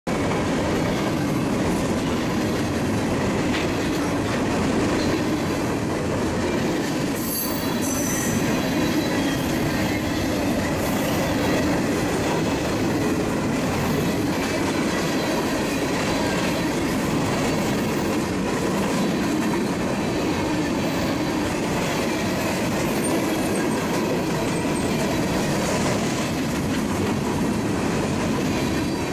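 Freight train's covered hopper cars rolling past close by, a steady rumble of steel wheels on rail, with a brief high wheel squeal about seven seconds in.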